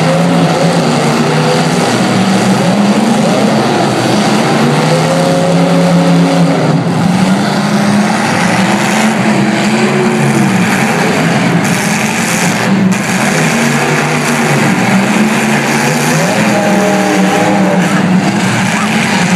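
Several demolition derby cars' engines running and revving hard together. Their pitches rise and fall as the cars accelerate and back off.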